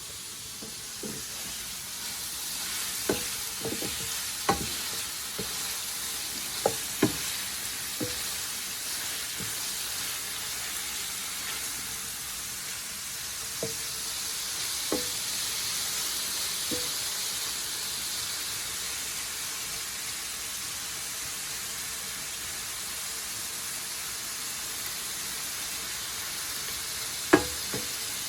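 Shrimp sizzling in a frying pan over medium heat, a steady hiss, with scattered light clicks of a utensil against the pan as the shrimp are turned. There is one sharper knock near the end.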